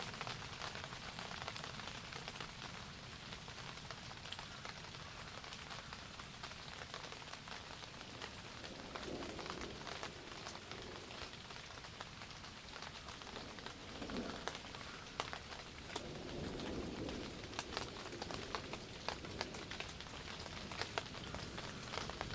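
Steady rain falling, with sharp individual drop taps becoming more frequent in the second half.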